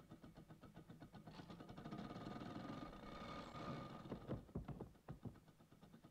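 Cartoon sound effect of an old car engine running with an even, fast chug, swelling in the middle, followed by a few low knocks a little after four seconds in.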